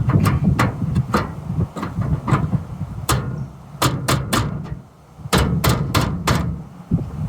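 Sharp, irregular knocks and blows struck on the 1947 Dodge truck to force a stubborn part, with a quick run of about five blows near the end. Wind rumbles on the microphone underneath.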